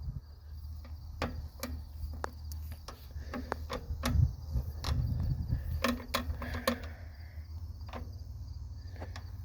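Irregular clicks and knocks as a dump truck's gear lever is moved through the gear pattern, with a louder clunking patch about four seconds in, over a steady low hum. Crickets chirp faintly.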